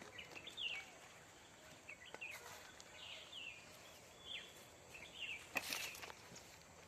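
Small birds calling, repeated short downward-sliding chirps every half second or so. A brief scraping or rustling noise comes a little past halfway and is the loudest sound.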